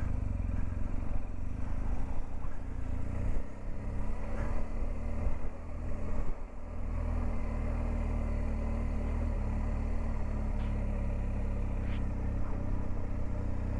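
Motorcycle engine running steadily at road speed, a low drone that is uneven for the first few seconds and settles to an even note after about seven seconds.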